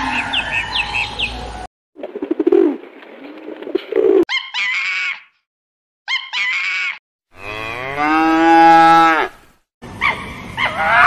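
Short farm-animal recordings cut one after another, with abrupt silent gaps between them. The clearest and loudest is a cow's single long moo, about two seconds long, starting some seven seconds in; the other segments hold shorter animal calls.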